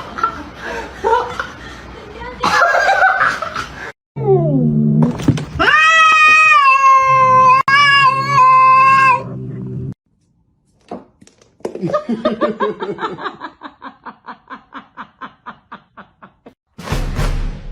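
People laughing over pet clips, with a long drawn-out call from a cat around the middle and a run of rhythmic laughing pulses, about four a second, near the end.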